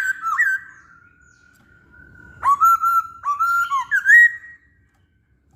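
Masked laughingthrush (poksay hongkong) singing clear whistled song: a short gliding phrase, a long steady whistle, then a quick run of whistled notes ending in a rising note.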